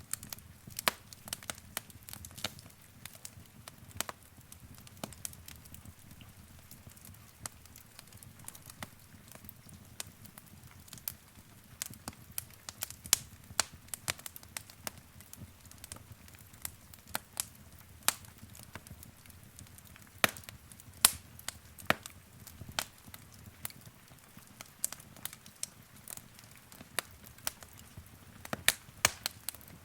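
Wood fire crackling in a fireplace: irregular sharp pops and snaps, several a second, over a soft low rumble of the flames.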